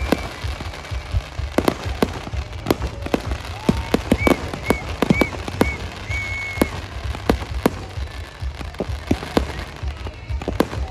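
Fireworks display: rapid, irregular bangs and crackles over a steady low rumble, with a few short high whistles around the middle.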